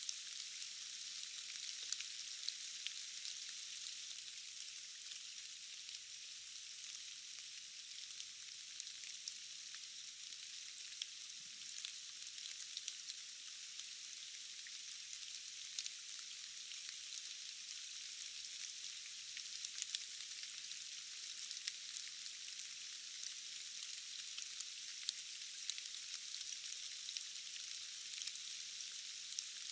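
Steady rain falling: an even hiss with many small, scattered drop ticks and no low rumble.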